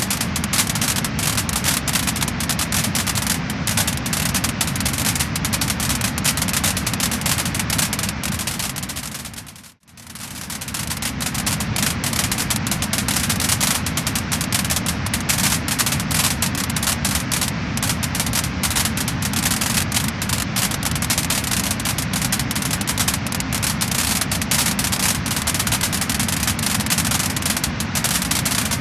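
Wood fire crackling and popping: a dense, continuous run of small snaps over a steady low rush. About ten seconds in, the sound briefly fades almost to nothing and then fades back in.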